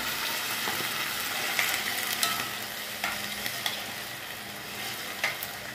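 Vegetables and seasonings sizzling in a hot pot as coconut milk is poured in and stirred, with a steady hiss and a few clinks of a metal spoon against the pot.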